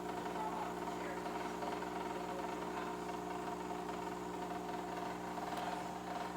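Philips fully automatic espresso machine running its brew cycle with a steady hum from the back, the sound of its water pump working, while no water comes out of the spout; the owner finds the water leaking out of the bottom of the machine instead.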